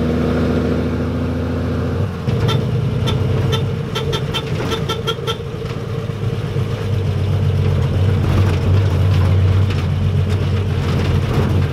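A car engine running on the move, its note changing abruptly about two seconds in, with a run of light clicks from about two and a half to five and a half seconds in.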